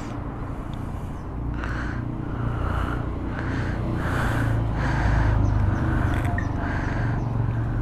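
Motor vehicle engine running: a steady low rumble that grows louder, with a faint pulsing about twice a second.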